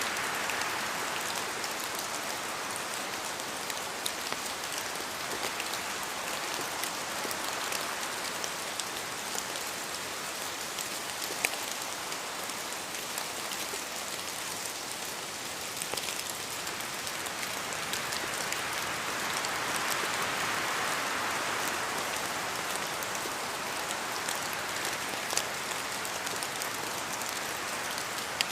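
Steady rain in a forest, with scattered louder single drops falling from the trees onto the ground. The rain's hiss swells gently twice, once near the start and again about two-thirds of the way through.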